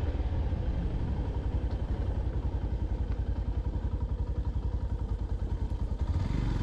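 Yamaha FZ-X motorcycle's single-cylinder engine running at low revs with a fast, even pulsing beat, which smooths out about six seconds in.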